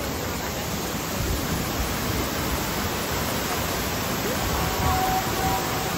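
Heavy rain falling: a steady, even rush of water noise.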